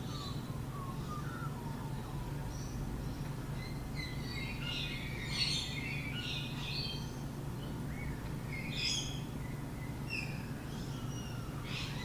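Birds chirping and twittering in short scattered bursts, busiest about four to seven seconds in and again near nine seconds, over a steady low hum.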